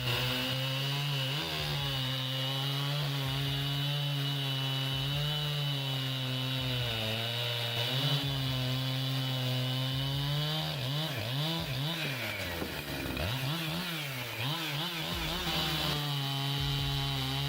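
Echo CS-7310SX two-stroke chainsaw running at high speed, cutting through a log. Its pitch holds fairly steady, then dips and climbs back several times about two-thirds of the way through as the engine speed changes in the cut.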